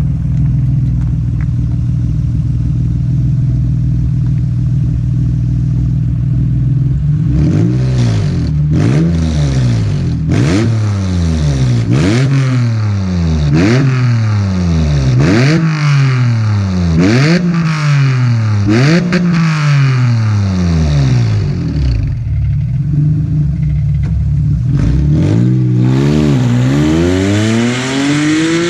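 Acura NSX V6 idling, then blipped through about nine quick revs close to two seconds apart, settling back to idle before one more rev near the end. It runs through its old exhaust, which is busted and has holes in the top, so the car is basically straight piped.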